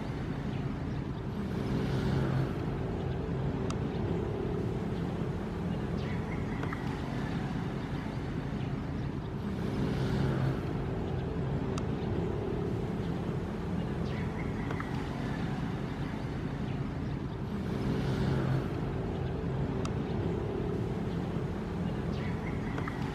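Ocean waves washing in over a steady low rush, swelling about every eight seconds.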